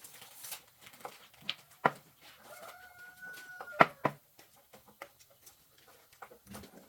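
Scattered sharp clicks and knocks of tools on metal, loudest just before the four-second mark. A single steady held tone lasts about a second in the middle.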